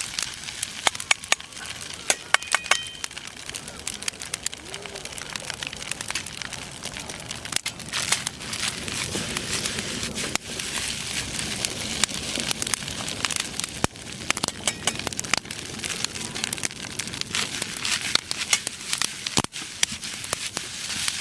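Frying over a campfire: a steady sizzle with many irregular sharp pops and crackles from the fire.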